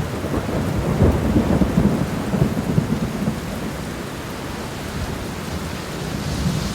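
Heavy rain with a low rumble of thunder, the rumble strongest in the first few seconds, then easing into steady rain noise.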